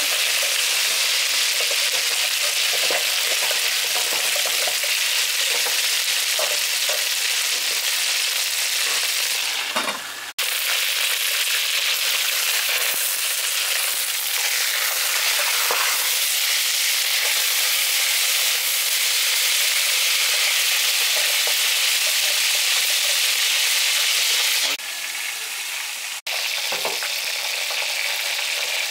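Whole chicken sizzling in hot pig fat in a stainless steel pot, a steady spattering hiss, with scattered light clicks of metal tongs against the pot as the bird is turned.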